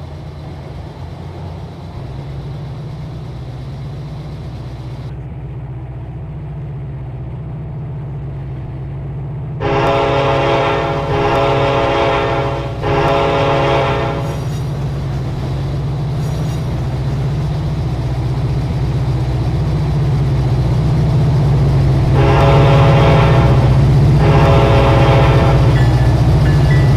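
Diesel freight locomotive running with a steady low drone that grows louder as it approaches. Its multi-chime air horn sounds long blasts about ten seconds in, then two more blasts near the end.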